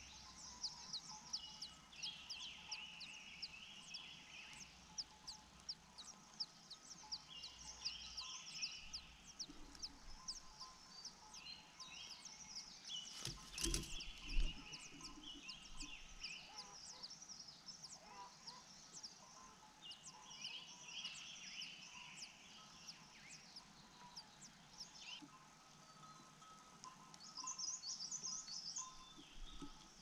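Faint bird chirps and twittering over soft background music, with one dull thump about halfway through.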